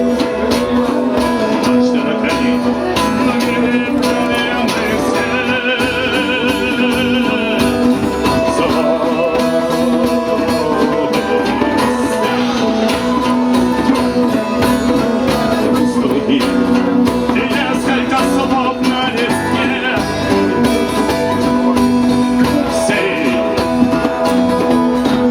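Band music: plucked guitar with singing over a held low note, with a wavering high melody line about six seconds in.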